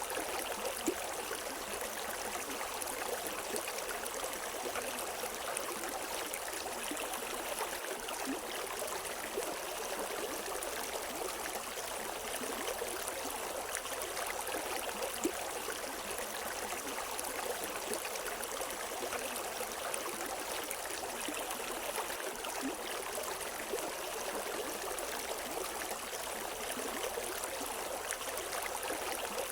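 River water running over rocks: a steady, even rush with small splashes and gurgles, and no birdsong.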